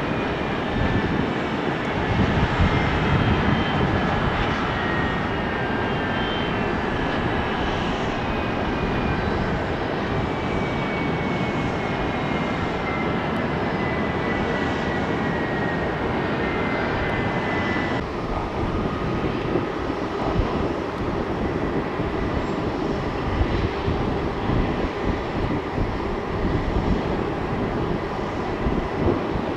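Jet airliner's engines running as it passes, a steady rush of noise with a thin whine falling slowly in pitch. About two-thirds of the way through the whine cuts off abruptly and a steady rumble carries on.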